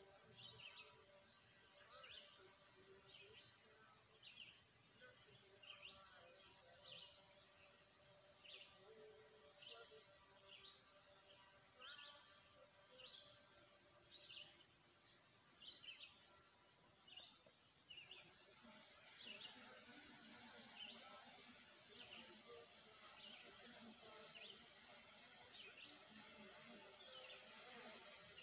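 Quiet outdoor ambience with a bird chirping over and over, a short high call roughly once a second.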